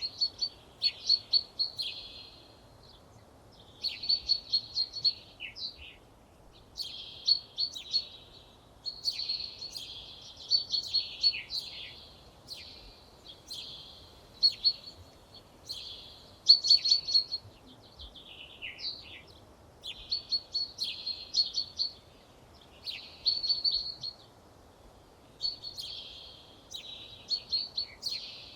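A songbird singing: phrases of quick repeated notes, each about two seconds long, repeated over and over with short pauses between, over a faint steady background hiss.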